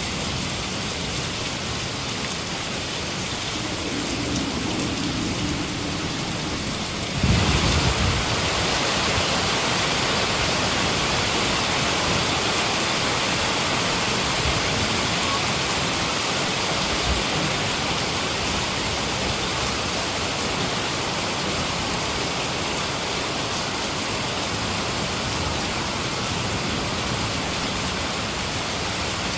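Heavy rain falling steadily, with a sudden low crack of thunder about seven seconds in, after which the rain is louder.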